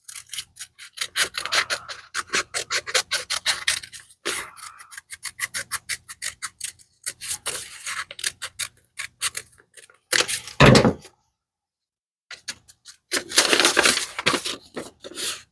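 Paper being worked by hand for a cut-out pattern: runs of quick scratchy strokes with short pauses between them, and one louder rustle or knock about ten seconds in.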